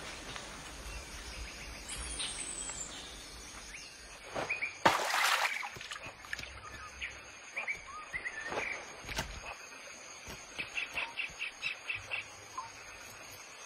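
Birds chirping and calling: a falling whistle about two seconds in, scattered short chirps, and a quick run of rapid pips near the end. A brief loud rush of noise comes about five seconds in.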